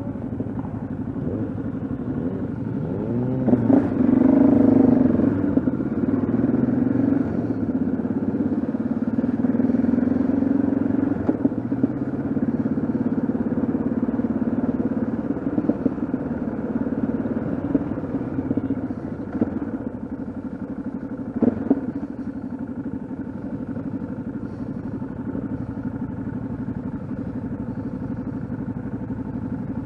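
Yamaha XT660Z Ténéré's single-cylinder engine running under way, revving up with rising pitch a few seconds in, then holding a steady note as it settles back.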